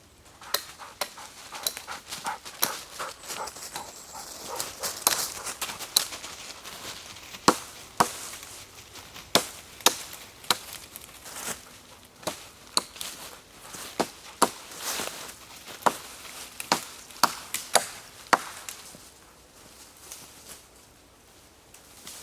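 Hatchet chopping wood: a run of sharp, irregular strikes, roughly one to two a second, that stops a few seconds before the end.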